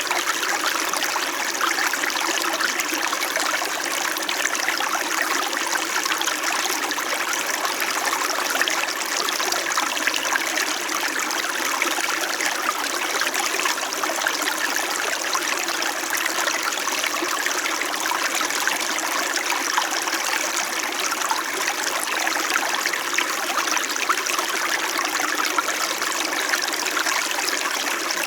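A small stream flowing and trickling over stones, a steady babbling of water.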